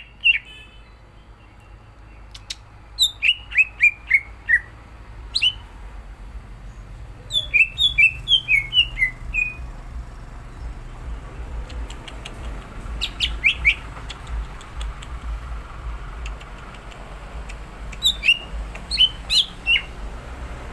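Cucak ijo (green leafbird) singing: bursts of quick, sharp whistled notes, many falling in pitch, in phrases separated by pauses of a few seconds. A steady low hum runs beneath.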